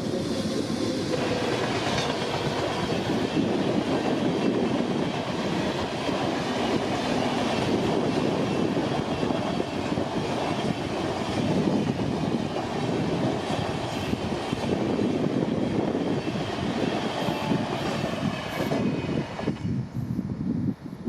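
LHB passenger coaches of an express train rolling past at speed, the wheels clattering over the rail joints in a dense, steady rumble. The noise cuts off sharply near the end as the last coach goes by.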